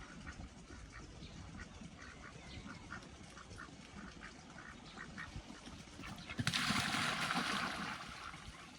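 Ducks quacking in short, repeated calls. About six and a half seconds in, a loud rush of noise, like a splash or a gust, starts suddenly and dies away over about a second and a half.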